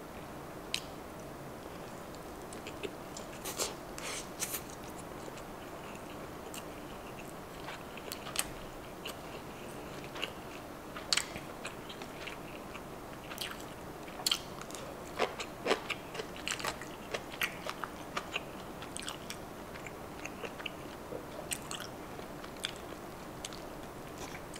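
Close-miked chewing of crab stick nigiri (imitation crab on rice): irregular soft clicks and wet mouth sounds, with no rhythm, over a steady faint hum.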